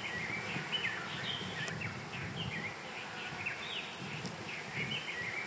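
Small birds chirping in quick, varied notes over a steady rush of wind.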